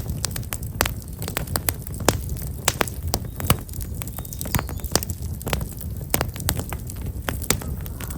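Black locust firewood burning in an open campfire, crackling and popping in irregular sharp snaps, several a second, over a steady low rumble.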